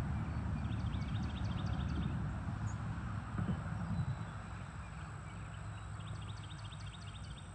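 A small songbird sings a rapid trill of short, high, evenly spaced notes, about seven a second, twice: once near the start and again near the end. A steady low rumble runs underneath.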